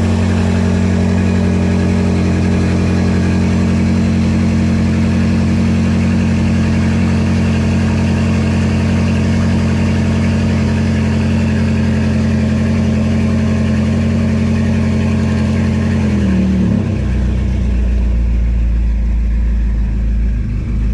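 Straight-piped BMW F10 M5's twin-turbo V8 with catless downpipes and no resonator or muffler, idling steadily at a raised cold-start idle. About three-quarters of the way through, the idle drops to a lower, deeper note as the fast idle comes down.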